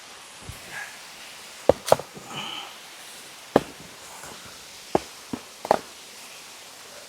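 About six sharp knocks and clacks at uneven intervals, as of hard objects being handled and set down, over a steady hiss.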